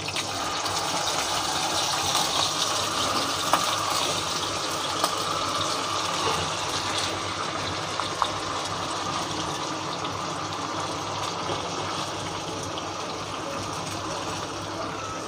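Marinated chicken pieces sizzling in hot oil in a frying pan as they are dropped in. It is a steady hiss that sets in at once and slowly eases, with a few sharp pops.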